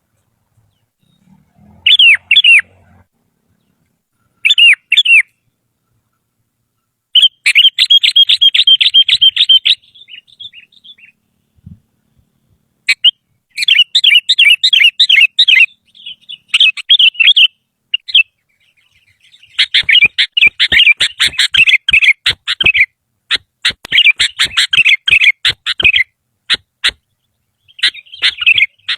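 Sooty-headed bulbul (kutilang) singing loud phrases of quick, rapidly repeated notes, separated by silent gaps. The phrases grow longer and denser in the second half.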